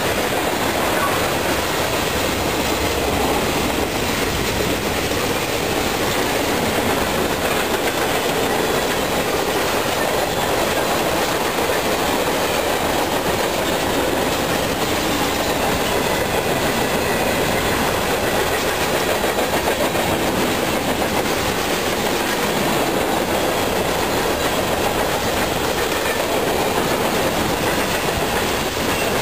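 Freight train cars (tank cars, covered hoppers and boxcars) rolling past: a steady, even noise of steel wheels running on the rails.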